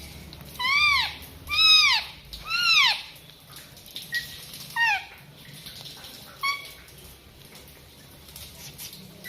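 Pet green parrot calling: three loud squawks in quick succession, each rising then falling in pitch. A few seconds later come two shorter, fainter calls.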